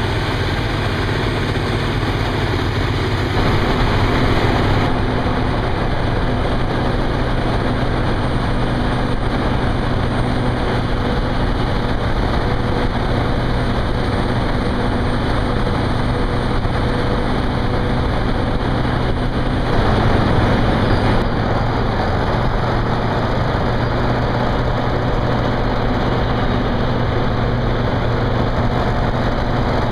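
Heavy diesel engine of earthmoving equipment running steadily, swelling briefly about 4 seconds in and again about 20 seconds in.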